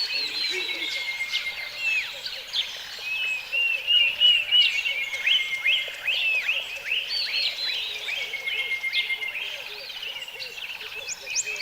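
Several birds calling at once: quick overlapping chirps and whistles, with a longer, slowly falling whistle that comes back every few seconds.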